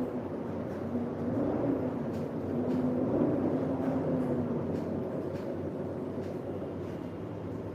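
Rain ambience under a steady low rumble, with a wavering hum that fades out about five seconds in; faint scattered drips tick through it.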